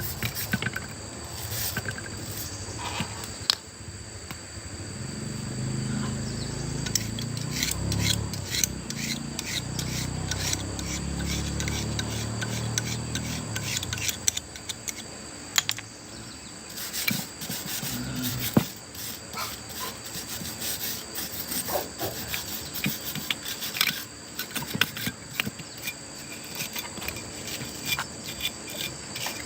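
Repeated scraping and rubbing, with many sharp clicks and knocks scattered through it. A lower, uneven sound runs underneath from about five seconds in until about fourteen seconds in.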